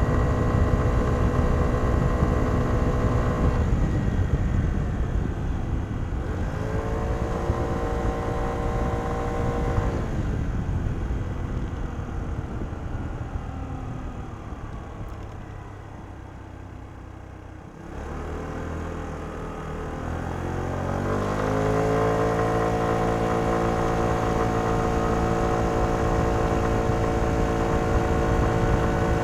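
Kymco Downtown 125i scooter's single-cylinder engine on its stock exhaust, heard from onboard while riding. It cruises steadily, then winds down off the throttle a few seconds in, with a brief rise in between, and slows to a quiet low point. About 18 seconds in it accelerates again, rising in pitch, and settles into a steady cruise.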